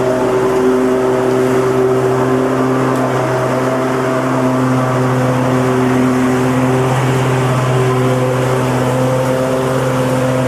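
Lawnmower engine running steadily at a constant speed: a continuous low drone with a hum of overtones and a whirring noise above it.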